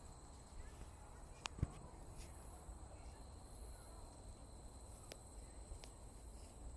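Quiet outdoor ambience: a low rumble of wind on the microphone under a steady, thin high-pitched tone, with a few faint chirps and one sharp click about a second and a half in.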